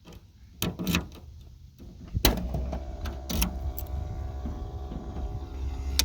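Car trunk lid latch being worked and the lid opened: a few light clicks, then a sharp clunk about two seconds in, followed by a steady low mechanical hum.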